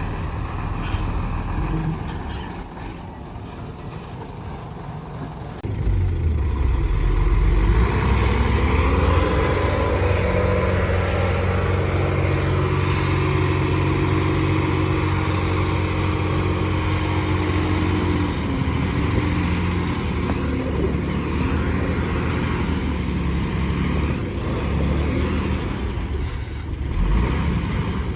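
Heavy diesel engine of earthmoving equipment running. It grows louder about six seconds in, revs up a few seconds later, holds a steady higher pitch for about eight seconds, then drops back.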